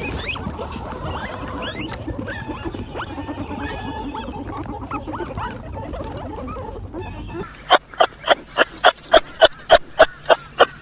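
Several guinea pigs squeaking and chirping with short, high, bending calls over a busy rustle. About two-thirds of the way through, a loud run of evenly spaced honk-like calls, about three a second, takes over.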